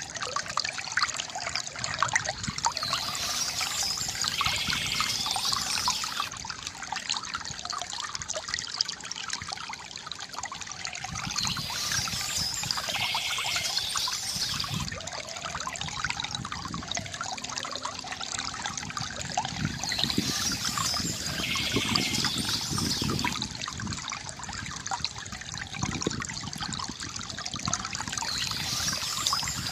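River water gurgling and trickling steadily, with birds chirping. A brighter, higher burst of chirping comes back about every eight seconds, four times.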